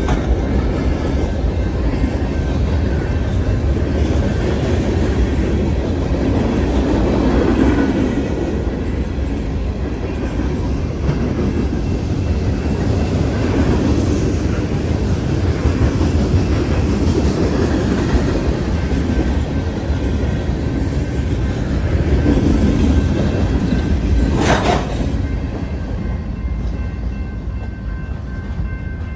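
Freight train cars rolling past close by: a steady rumble of steel wheels on the rails, with clatter from the passing cars. A single sharp knock comes near the end.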